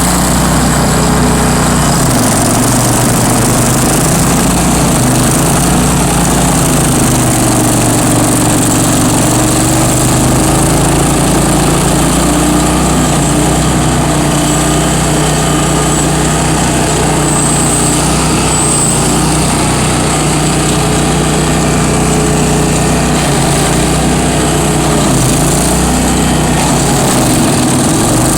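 Bandit ZT1844 stump grinder's engine running at high speed, its pitch sagging briefly a few times and recovering as the cutter wheel takes load.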